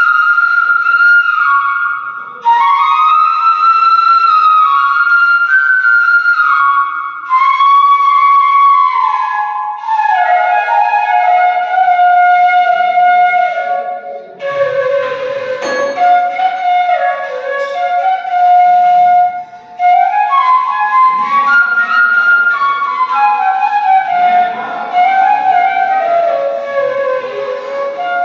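Background music: a flute-like melody played in flowing phrases that step downward in pitch, with brief pauses between phrases.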